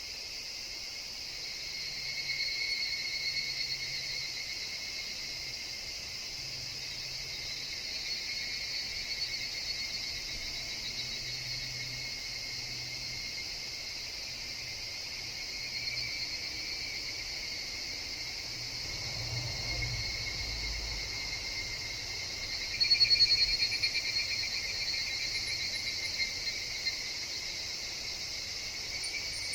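A chorus of higurashi (evening cicadas) calling steadily, the chorus swelling every few seconds. The loudest rise comes a little past the middle.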